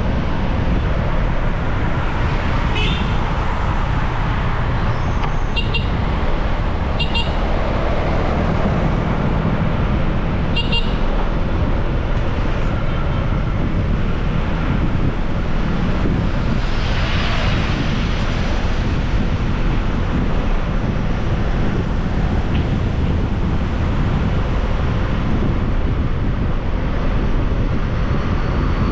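Steady wind and road noise of a motorbike ride through traffic, with short vehicle horn beeps four times in the first eleven seconds and a louder rush of noise about seventeen seconds in.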